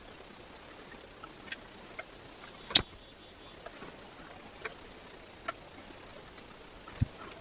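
Scattered light taps and clicks at a bird feeder, with one sharp loud click nearly three seconds in and a dull knock near the end, over a steady faint hiss.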